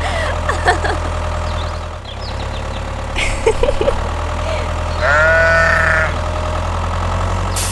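Mini tractor engine running with a steady low drone, with scattered short chirps and one drawn-out, bleat-like call about five seconds in.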